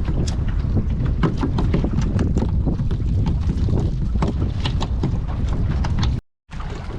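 Wind buffeting the microphone as a steady low rumble, with many small sharp clicks and knocks over it. The sound cuts out abruptly for a moment a little after six seconds.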